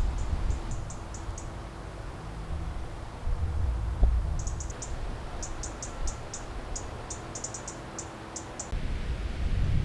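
Runs of quick, high-pitched chirps from a small animal, a short run at the start and a longer one from about four and a half seconds in, over a low rumble of wind or handling noise; a single sharp knock about four seconds in.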